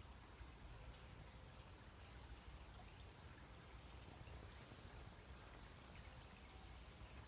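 Near silence: faint steady outdoor background noise with a few faint, brief high chirps scattered through it.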